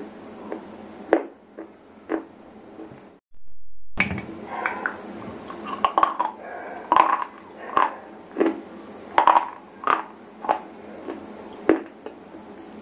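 Close-miked crunching and chewing of dry, brittle edible earth: irregular sharp cracks, several a second. The sound cuts out completely for about a second just after three seconds in, then the crunches come back louder and closer together.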